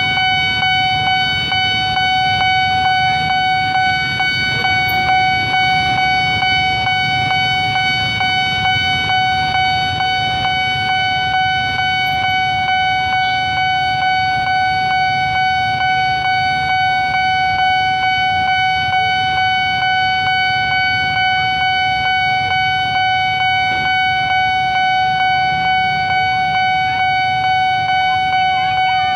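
Railway level-crossing warning alarm sounding one steady, unbroken electronic tone over a low rumble of traffic.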